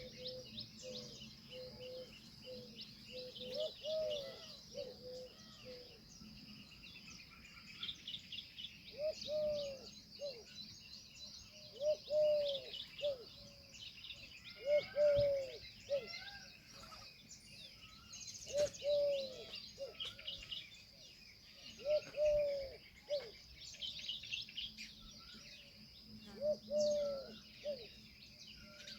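Birds calling: a low, rising-and-falling call repeated in short groups of two or three every few seconds, over steady high chirping and twittering of small birds.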